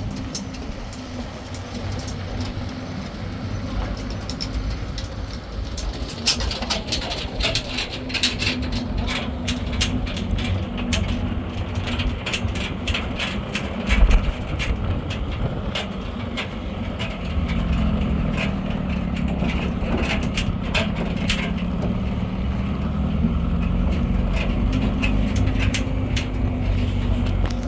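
A motor vehicle's engine runs steadily while the vehicle is driven. From about six seconds in there are many clicks and rattles, as from a vehicle jolting over rough ground. Later the engine's pitch rises and falls.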